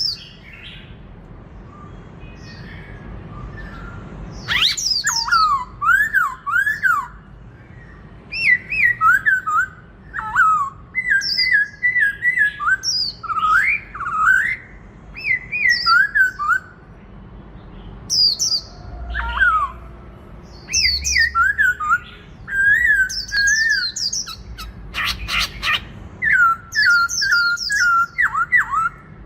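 Black-throated laughingthrush singing its loud competition song: rich, ringing whistled phrases that swoop up and down in pitch, delivered in bursts with short pauses between. The song starts about four seconds in.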